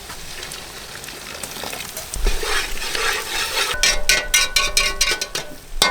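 Onion-tomato masala sizzling in a karahi with water just added, then from a little past halfway a metal spoon stirring and scraping fast against the pan, with quick clicks that ring.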